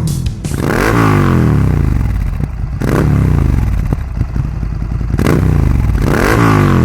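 Ducati Scrambler 800's air-cooled L-twin engine revved through a LeoVince aftermarket slip-on exhaust: two quick throttle blips, the revs climbing sharply and then falling back slowly to idle, about a second in and again near the end.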